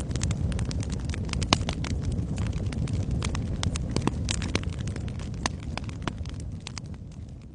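Wood fire crackling in a fireplace: frequent sharp pops and snaps over the low, steady rumble of the flames, fading down near the end.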